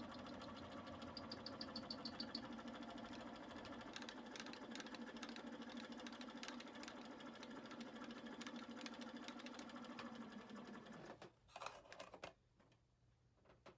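A small machine tool running steadily with a low hum and fast, even ticking, then shutting off about eleven seconds in, followed by a few light clicks.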